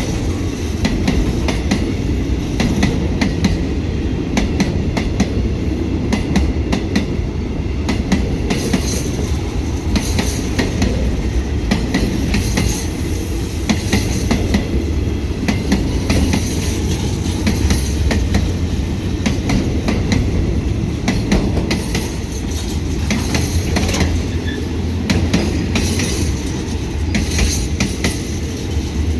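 A train's cars rolling steadily past, wheels clattering over the rail joints with a continuous low rumble.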